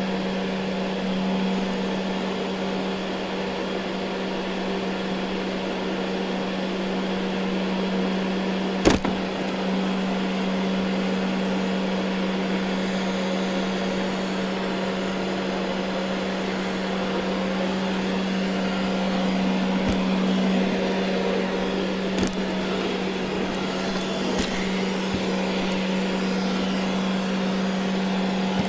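Ecovacs Deebot N79 robot vacuum running over carpet: a steady motor hum with brush and suction noise. A sharp knock about nine seconds in, and two lighter clicks later on.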